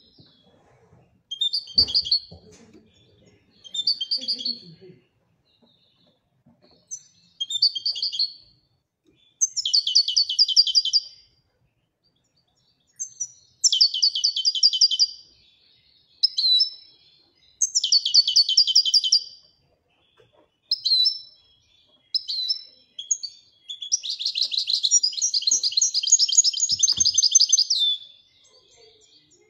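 European goldfinch (Moroccan goldfinch) singing in the Wedania song style: phrases of rapid twittering trills with short pauses between them, and the longest unbroken run near the end.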